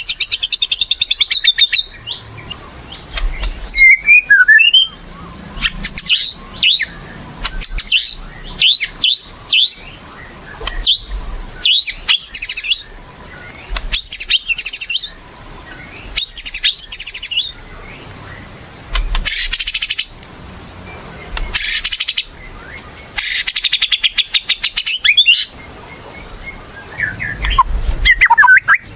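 White-rumped shama (murai batu) singing loudly in full song: a long run of short, varied phrases of clear whistles, sweeping notes and rapid trills, broken by brief pauses.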